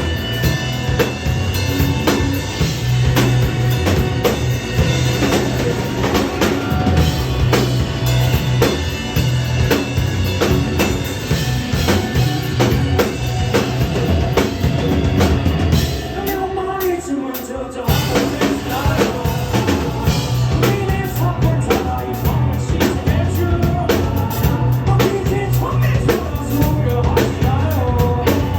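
Live indie rock band playing: drum kit, bass and guitar together. About two-thirds of the way through, the drums and bass drop out for a second or two, then the full band comes back in.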